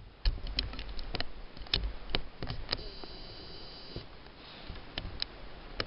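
A sheet of paper being handled and folded into an origami plane: irregular small crackles and taps as the paper flap is bent and creased. A faint high steady tone sounds for about a second near the middle.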